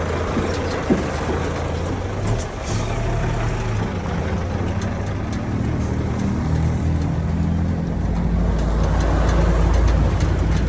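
Heavy diesel engine running with a steady low rumble, growing louder about eight seconds in.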